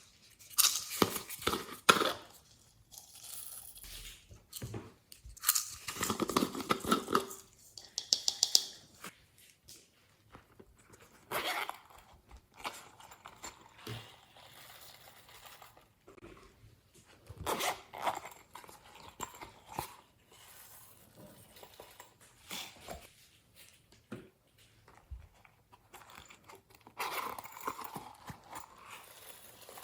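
Glossy slime being squeezed, stretched and kneaded by hand while clay, glitter and foam are worked into it: sticky crackles, squishes and crunches in irregular bouts with short quiet gaps, the loudest about a second in and around six to eight seconds in.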